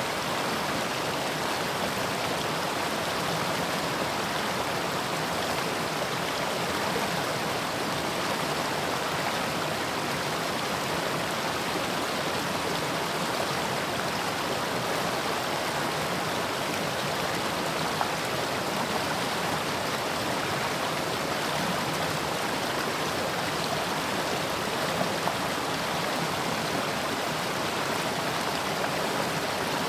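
Mountain stream flowing steadily over rocks: a constant rushing and babbling of water.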